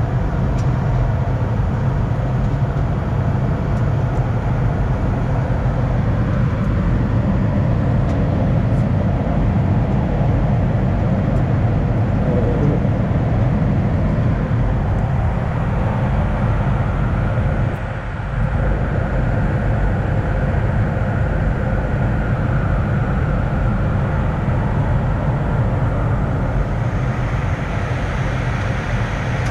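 Steady noise inside an Airbus A220: engine and airflow noise heard from the front of the aircraft, with a brief dip about 18 seconds in.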